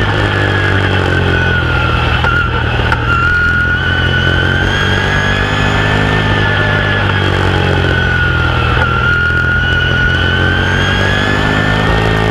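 Open-wheel modified race car's V8 heard from inside the car at racing speed. The engine note dips twice and climbs again each time as the car lifts off and gets back on the throttle around the oval.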